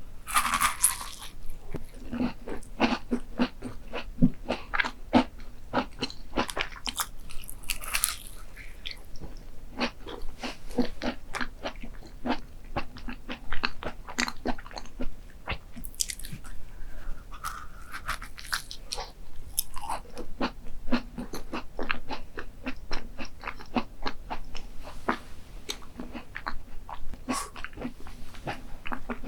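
Close-miked crunchy chewing of a dessert: a dense, irregular run of sharp crunches, several a second, with a few short hissy rustles in between.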